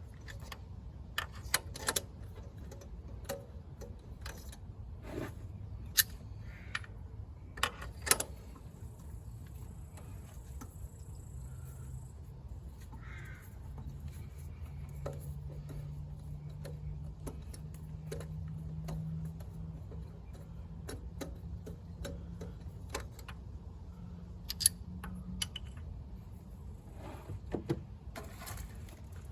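Scattered metallic clicks, clinks and knocks of hand tools at work on a car engine, a few of them sharp and loud, over a low steady hum.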